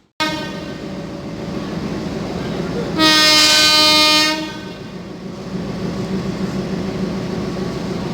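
Train locomotive's horn sounding once as a loud held blast of about a second and a half, a few seconds in, over the train's steady running noise.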